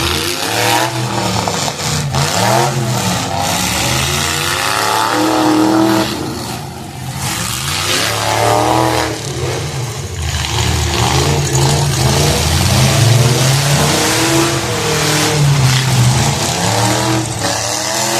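Several demolition derby cars' engines revving hard, their pitch rising and falling as they accelerate and back off, with occasional bangs of cars hitting each other.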